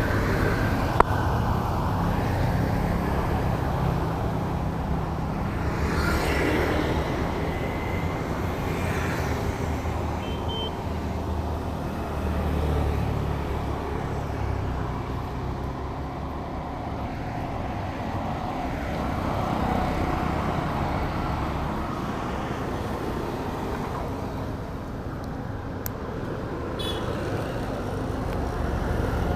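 Harley-Davidson X440's single-cylinder engine running, its level swelling and easing a few times. There is a sharp click about a second in.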